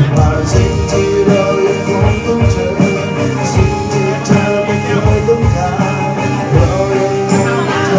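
Rock band playing an instrumental passage: electric guitars with a steady drum-kit beat.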